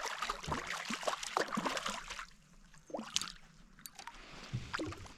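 Water splashing and dribbling close by at the side of a fishing kayak while a small caught trout is handled. The splashing is busiest for about the first two seconds, then breaks into a few scattered drips and knocks.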